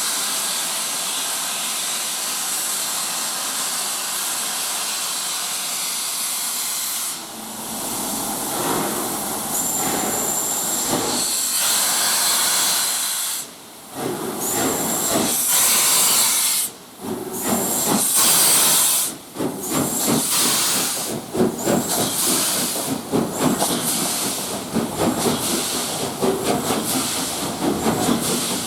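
LMS Royal Scot class 4-6-0 steam locomotive 46115 'Scots Guardsman', a three-cylinder engine, standing with a steady hiss of steam, then louder uneven blasts of steam, and from about two-thirds through a run of regular exhaust beats that gradually quicken as it gets under way.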